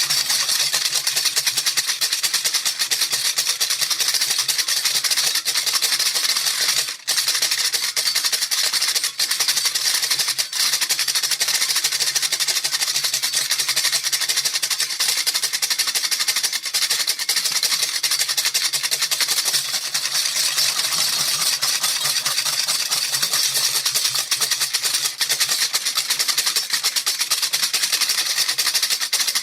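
Baby rattle shaken rapidly and without pause, a dense, hissy rattle of many small beads, with a brief break about seven seconds in.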